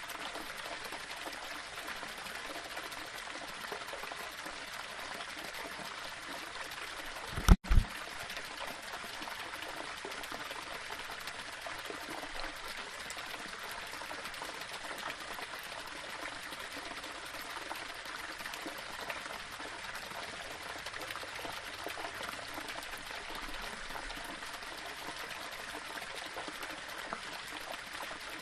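Small waterfall splashing steadily over rocks. About seven seconds in, a brief loud low double thump cuts through it.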